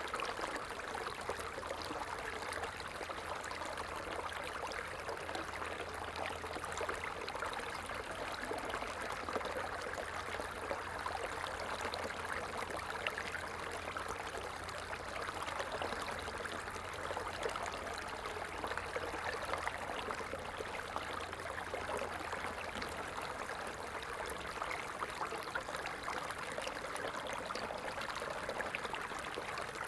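A stream of water running steadily over rocks, an even, continuous rushing and trickling.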